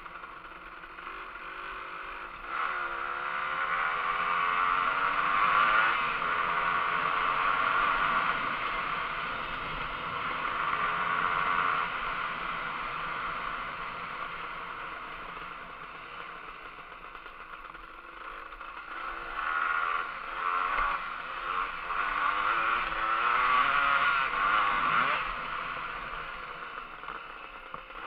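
Kawasaki KMX 125 dirt bike's two-stroke single-cylinder engine running under way, its pitch climbing about two and a half seconds in, easing off through the middle, and rising again in several surges about two-thirds of the way through.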